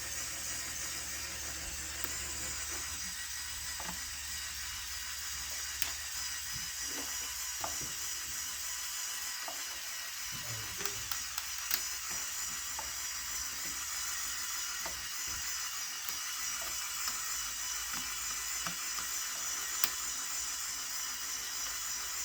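Small electric motor and plastic gearing of a Lego Technic Airbus H175 model running steadily with a high whir, and a few light clicks scattered through.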